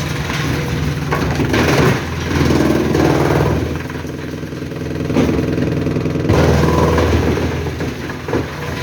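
Engine of a forestry wood chipper running loud, its note rising and falling as the load changes. It eases off about three and a half seconds in and comes back up strongly a little after six seconds.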